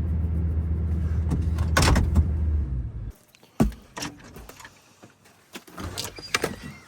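Truck engine idling, then shut off abruptly about three seconds in; a few sharp clicks and knocks follow.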